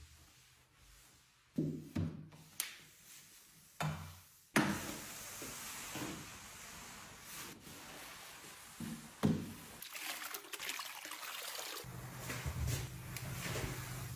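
A few sharp knocks of containers and items being handled and set down, then several seconds of something being poured steadily into a container. Near the end comes a steady low hum with more handling noise.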